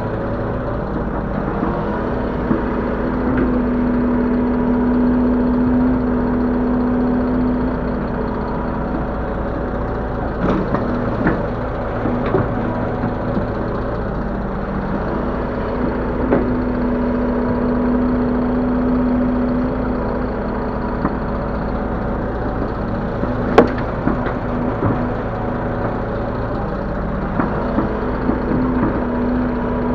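Link-Belt 145X3E hydraulic excavator running steadily as it works, its hum joined in stretches by a stronger steady tone. A few clanks and knocks break in, the sharpest about two-thirds of the way through.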